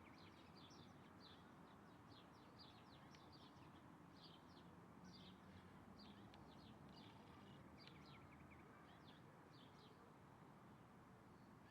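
Faint birds chirping: many quick, high, short chirps in loose runs over a steady low background hiss.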